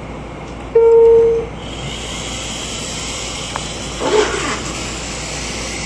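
Toy airplane's electronic sounds: a loud single horn-like tone about a second in, followed by a steady hiss.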